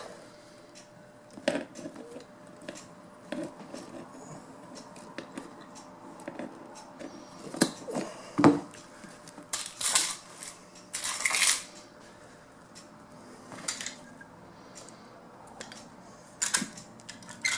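Scattered handling sounds of hand upholstery work on a seat: light clicks and metallic clinks, a louder knock about halfway through, and two short rustling scrapes soon after.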